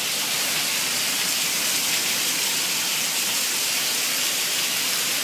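Heavy rain pouring down, a dense, steady hiss of falling water.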